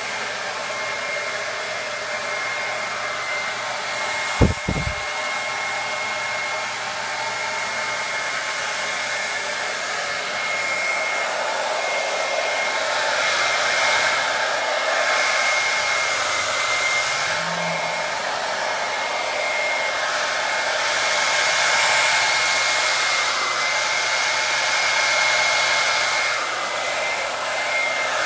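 SweetLF 1875W ionic hair dryer blowing steadily, a rush of air over a thin, high motor whine, growing louder and softer at times. A brief knock about four and a half seconds in.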